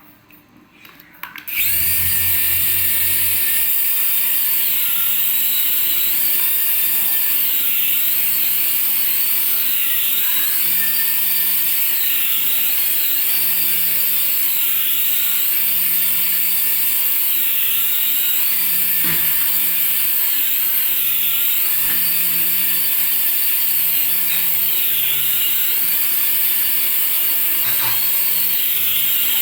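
Small electric motor of a toy remote-control vehicle whining steadily, starting about a second and a half in, its high pitch rising and falling again and again as the throttle is varied.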